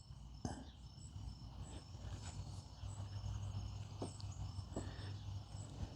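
Quiet workbench sounds while a soldering iron tip is re-tinned: a few faint, scattered clicks and taps over a low steady hum. A regular series of short, high chirps, about two to three a second, runs underneath, like a cricket.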